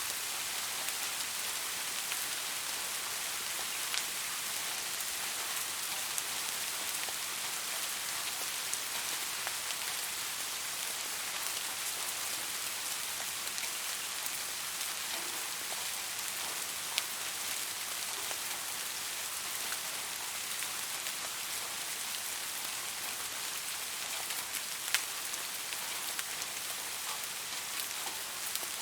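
Steady rain falling, an even hiss with scattered individual drops ticking sharply on a surface; one drop about 25 seconds in is louder than the rest.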